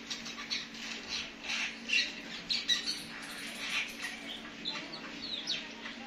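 Birds chirping and calling in a tree: many short, irregular calls, some overlapping, with a few quick downward-sliding notes, over a faint steady low hum.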